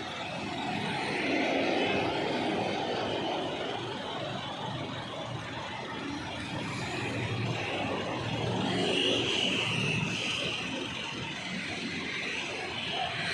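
Motor vehicle noise, a steady rumble and hiss that swells and fades in slow waves.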